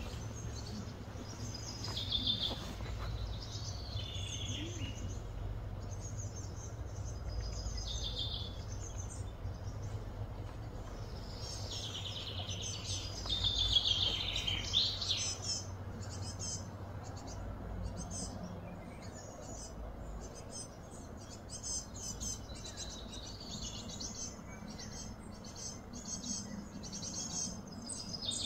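Birds chirping and calling outdoors, several calls sliding down in pitch in the first half and quicker, denser chirping later, over a faint steady low hum.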